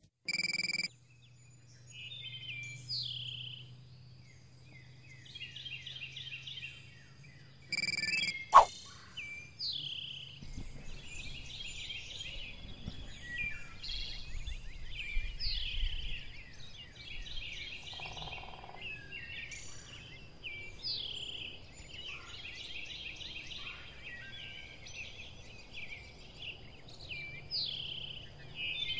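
Birds singing and chirping over a faint outdoor background, the same calls coming round about every six seconds. A short, sharp sound about eight and a half seconds in is the loudest moment, with a brief burst just before it and another near the start.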